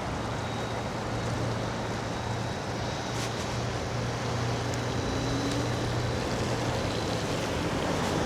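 Steady hiss of wind on the microphone and scooter tyres running over a wet, slushy road, with a low steady hum underneath.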